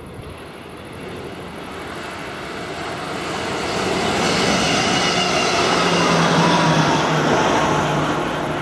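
A train approaching on the line and passing close by. Its rumble grows steadily louder to a peak about six seconds in, with a low steady hum joining from about four seconds in.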